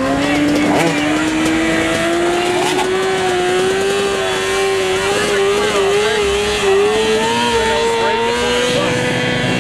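Motorcycle engine held at high revs, its pitch climbing slowly and steadily for about nine seconds before it begins to drop right at the end.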